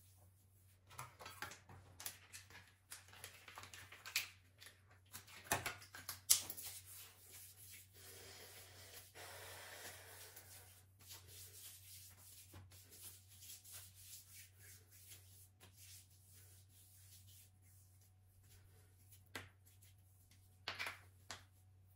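Light household handling sounds: scattered soft knocks and clicks, with a stretch of soft rustling about eight seconds in.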